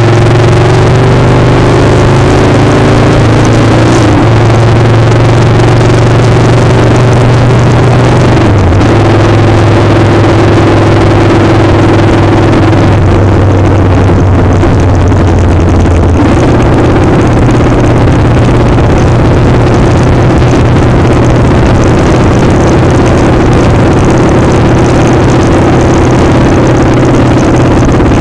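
Motorcycle engine running steadily on the move, with a dense rush of wind noise over the microphone. The engine note holds, then shifts to a new pitch a few times as the speed changes.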